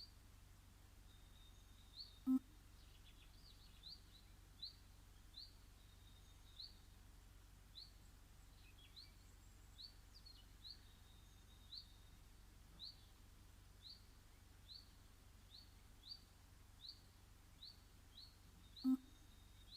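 A bird in a garden repeating one short rising chirp over and over, about once a second. Two dull thumps, one a couple of seconds in and one near the end, are the loudest sounds.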